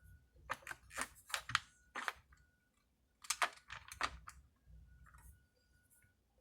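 Light clicks and taps of chainsaw parts and hand tools being handled during reassembly, in two quick irregular clusters with a short pause between them.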